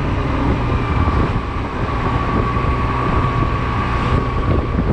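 Honda Silver Wing maxi-scooter's engine running steadily while riding, with wind noise over the camera's microphone.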